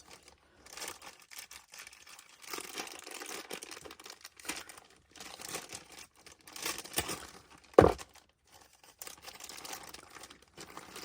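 Packaging crinkling and tearing in uneven stretches as packets of craft beads are opened by hand, with one sharp knock near the eight-second mark.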